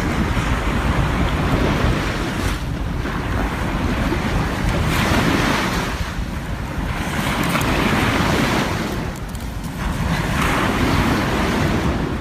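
Heavy wind rumble on the microphone with a rushing noise that swells and fades every few seconds.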